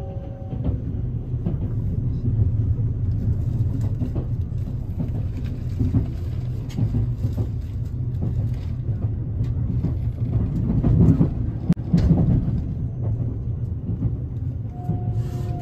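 Train running on the track, heard from inside the carriage: a steady low rumble with irregular clicks and knocks from the wheels and running gear. Near the end a single tone slowly falls in pitch.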